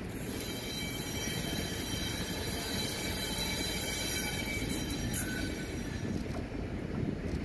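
Pacific National 83 class diesel locomotive approaching slowly on a curve at the head of a loaded sugar train: its engine runs under a steady low rumble of the train. High, steady wheel squeal sounds over it and fades out about five seconds in.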